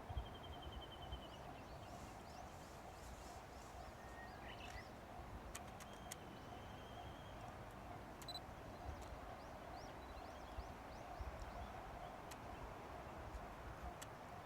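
Small birds calling: a rapid high trill near the start and another about six seconds in, with scattered short chirps. Beneath them is a faint steady background hum and low rumble.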